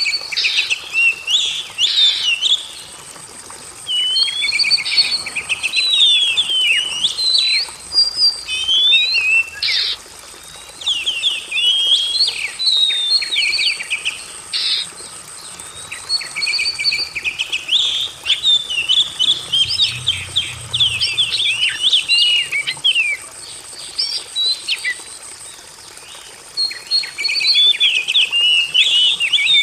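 Oriental magpie-robin (kacer) singing: bursts of rapid, varied, sweet whistled and warbling phrases a few seconds long, broken by short pauses.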